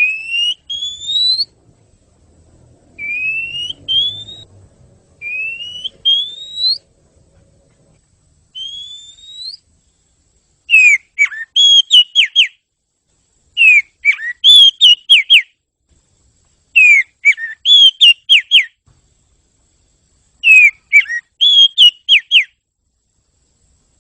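Oriental magpie-robin song: four slow rising whistles, then from about 11 seconds in four bursts of rapid chattering notes, each about two seconds long and a few seconds apart.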